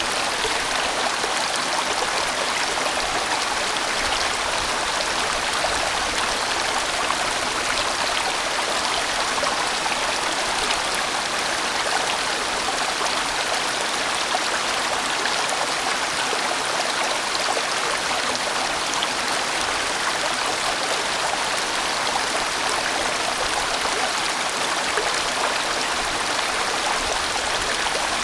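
A large valley stream flowing, an even, unbroken rush of water.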